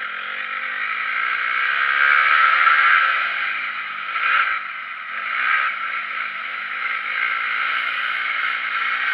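Motocross dirt bike engine revving up and falling off again and again as it is ridden round the track.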